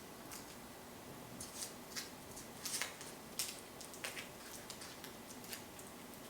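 Hands working kimbap ingredients: a run of light, crisp clicks and rustles, irregular and strongest about three seconds in.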